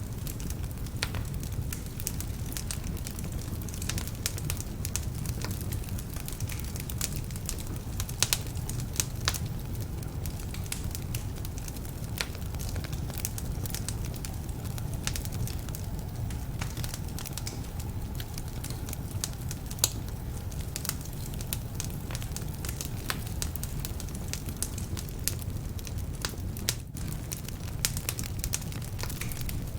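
Wood fire burning in a fireplace: a steady low rumble of flames with frequent sharp crackles and pops from damp logs.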